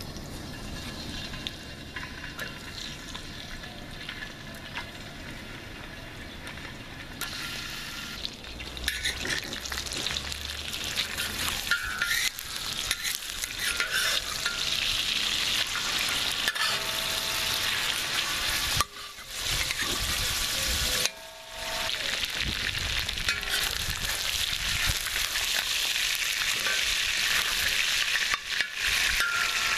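Chicken thighs sizzling in hot oil in a steel plow-disc pan (discada), with a metal spatula scraping and turning them against the steel. The sizzle grows louder about eight seconds in and cuts out briefly twice past the middle.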